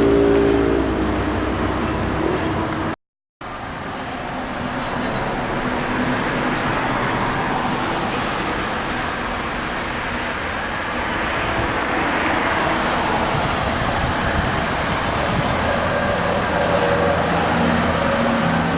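Expressway traffic with heavy trucks passing on a rain-wet road: steady tyre hiss and spray with truck engine noise. The sound cuts out completely for about half a second a few seconds in.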